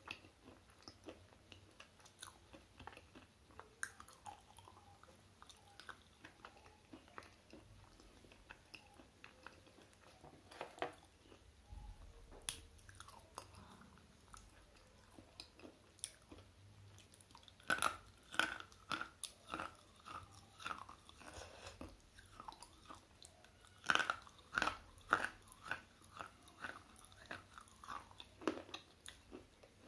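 Slate pencil being bitten and chewed close to a small microphone: a steady run of dry, gritty crunches, with louder clusters of bites a little past halfway and again about three-quarters through.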